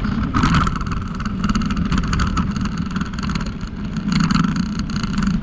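Steady rumbling noise of a bicycle ride, its tyres rolling along the trail.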